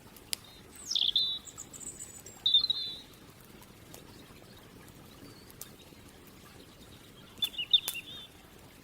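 Songbird calls: a chirp sliding down about a second in, a thin high note, another short call a little later, and a quick burst of chirps near the end. A few sharp pops of campfire crackle sound over a faint steady background.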